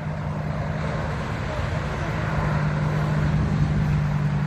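Car engine running with a steady low drone, growing a little louder.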